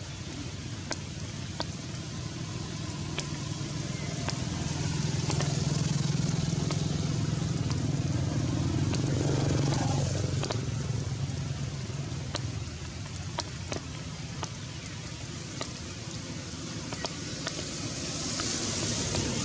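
Steady rain with scattered drops ticking sharply. A low engine hum swells from a few seconds in and fades out a little past the middle.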